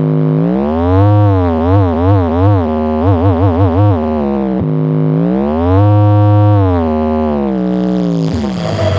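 Horeg carnival sound system playing a buzzy synthesized test tone with deep bass: the tone holds, glides up and down in pitch, and wobbles rapidly in short stretches with the bass pulsing in time. About eight and a half seconds in it gives way to electronic dance music.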